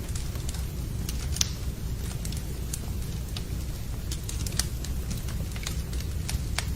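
Wood fire burning in a fireplace: scattered sharp crackles and pops over a steady low rumble, with one louder pop about one and a half seconds in.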